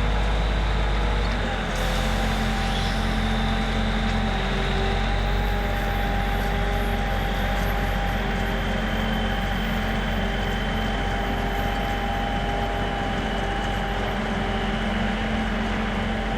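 Steady running vehicle, a constant low drone with a thin high whine over it.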